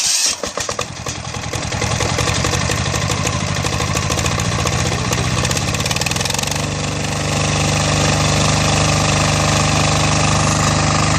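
Diesel engine cranking briefly, catching and running with a rapid clatter; about six and a half seconds in its note settles to a steadier speed.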